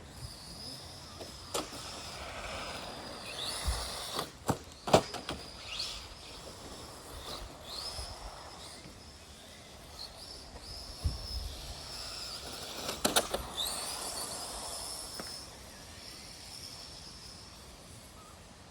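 Electric motors of Tamiya RC race trucks whining high, rising and falling as they speed up and slow down, with several sharp knocks; the loudest knock comes about five seconds in.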